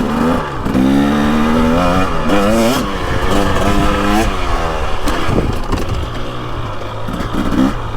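2023 KTM 300XC's 300cc two-stroke, throttle-body fuel-injected engine revving under way, its pitch rising and falling several times as the throttle is rolled on and off.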